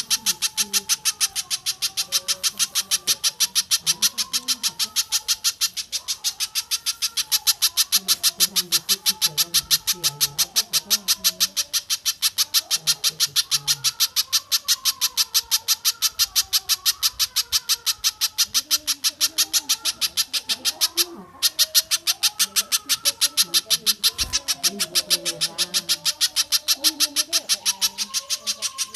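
Looped bird-song training recording of spiderhunter and tengkek buto calls. It is a fast, even string of sharp high notes, several a second, over lower, shifting warbled notes. There is a brief break a little over two-thirds of the way through.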